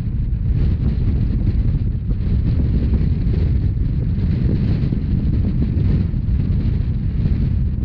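Wind buffeting the microphone over the steady low rumble of a Rhaetian Railway narrow-gauge train running at speed.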